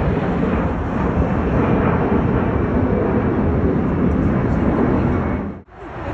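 Loud, steady jet airliner engine noise, close by, that cuts off suddenly near the end.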